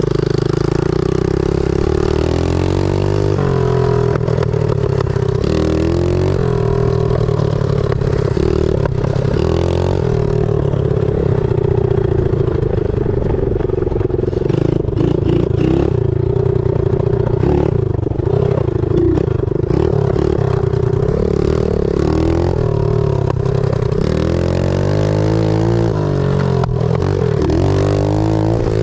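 Pit bike engine revving hard as the bike is ridden, its pitch climbing and dropping again and again as the rider works the throttle and gears.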